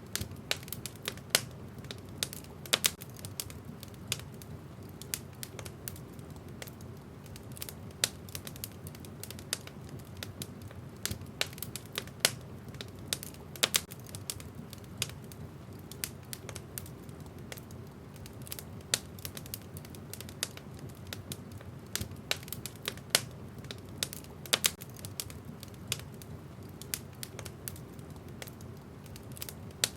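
Wood fire crackling in a fireplace: irregular sharp pops and snaps of the burning logs over a steady low rumble.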